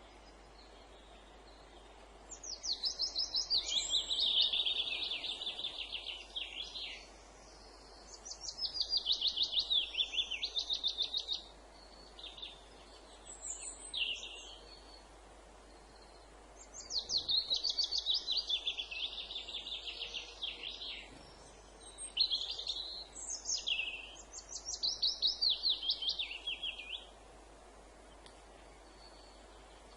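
A songbird singing phrases of rapid, high trilled and repeated notes, each about one to five seconds long with short pauses between, over faint steady background noise.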